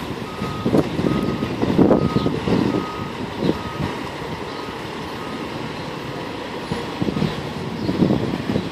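Fire engine's reversing alarm beeping at a steady pace, a little more than once a second, over the truck's running engine as it backs up. The beeps stop about four seconds in and the engine goes on.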